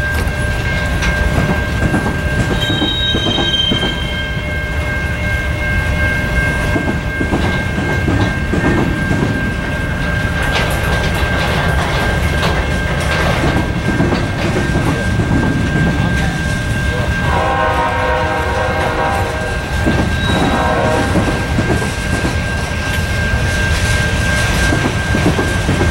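Freight cars of a mixed train, tank cars, hoppers and boxcars, rolling past with a steady rumble and wheels clicking over rail joints, under a steady high whine. About two-thirds of the way through a train horn sounds, one long blast and then a short one.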